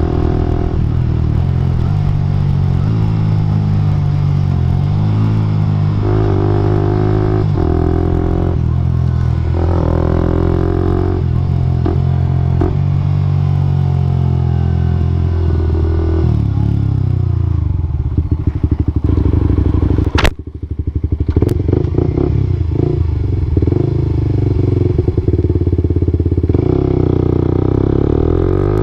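Suzuki GSX-R125 single-cylinder engine running through an aftermarket slip-on exhaust, its revs rising and falling. It slows down about two-thirds of the way through, with a brief dip and a couple of sharp clicks, then runs steadily and picks up again near the end.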